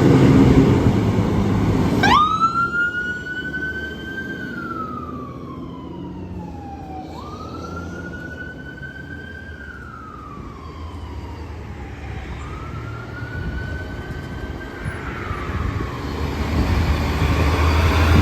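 Fire apparatus siren wailing in three cycles: each one climbs quickly, then falls slowly, and each is fainter as the vehicle moves away. A passing truck's engine and road noise is heavy at the start, and another comes up loud near the end.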